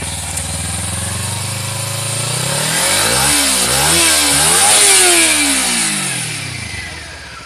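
Kawasaki Ninja 300's parallel-twin engine being revved in place. The revs climb steadily, are blipped up and down several times, and then fall away toward idle near the end.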